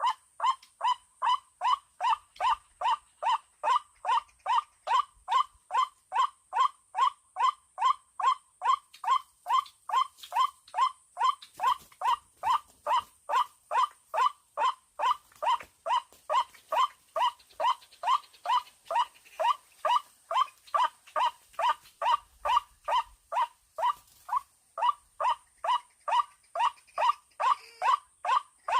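White-breasted waterhen call played through a loudspeaker as a lure: a rapid, perfectly even string of short pitched notes, about two and a half a second, with a thin steady high electronic tone underneath.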